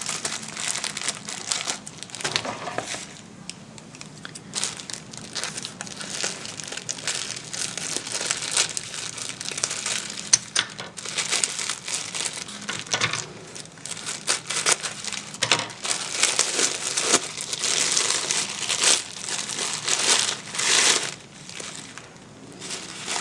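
Crinkling and rustling of plastic or paper packaging being handled and unwrapped, in irregular crackling bursts with brief pauses.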